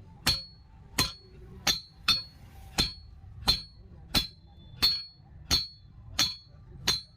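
Blacksmith's hammer striking a steel rod on an anvil in a steady rhythm, about ten blows, one every 0.7 seconds or so, each with a short metallic ring.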